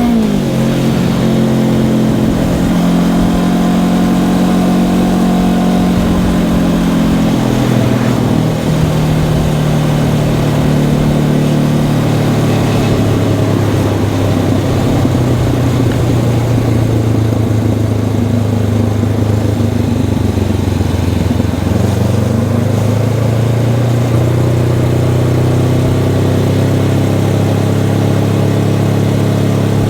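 Honda CB500X's parallel-twin engine with its stock exhaust running while riding. The engine note falls right at the start, steps lower about a third of the way in, holds low through the middle, and climbs again about three quarters through.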